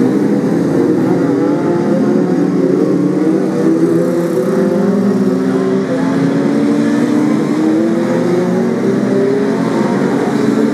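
Several BriSCA F2 stock car engines racing at once, their overlapping notes rising and falling as the cars accelerate and lift off around the track.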